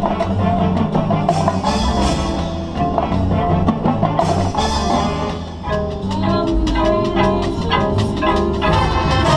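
Marching band playing its field show: sustained pitched melody over drums, with sharp percussion strikes and a couple of bright crashes.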